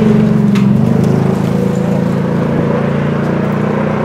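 Rally car engine held at high revs under hard acceleration, the sound slowly fading as the car pulls away.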